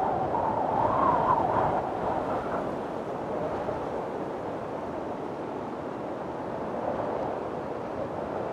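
Strong wind blowing steadily, with a louder gust that howls and wavers in pitch in the first two seconds before settling back.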